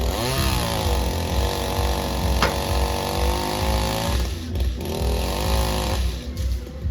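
Chainsaw revving up to full throttle and running steadily, easing off briefly about four seconds in and again near the end before picking up again.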